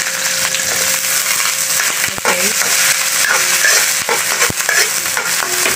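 Chopped garlic, ginger and onion sizzling in hot oil in a wok, stirred with a metal spatula, with a few sharp clicks of the spatula against the pan.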